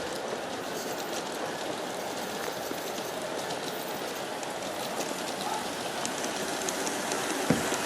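G-scale model train, four F3 diesel units pulling eleven passenger cars, running along the track with a steady rolling hiss of wheels on rails. It grows a little louder near the end, where there are a couple of sharp clicks.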